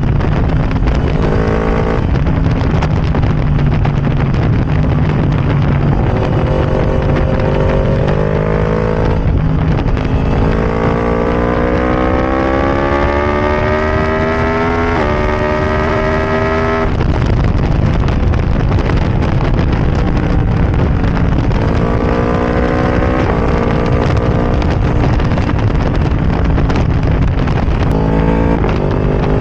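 Yamaha R1 crossplane inline-four on a decatted Arrow Racing exhaust with no baffle fitted, accelerating hard several times while being ridden. The engine note climbs in pitch in repeated runs, dropping back at each upshift, the longest pull coming about halfway through, with road and wind rumble underneath.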